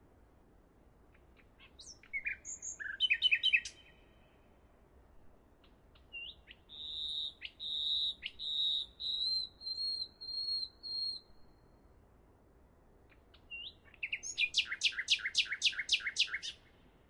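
Bird song: a few quick chirps, then a long wavering whistle, then a fast run of about ten repeated notes near the end.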